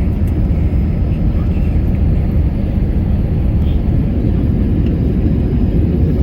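Steady low rumble of Airbus A320 cabin noise in flight: engine and airflow noise with no separate events.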